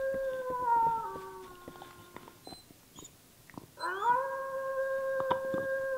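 Two long canine howls, each holding a steady pitch and then sliding down in steps at its end; the first dies away about two seconds in, and the second rises in about four seconds in.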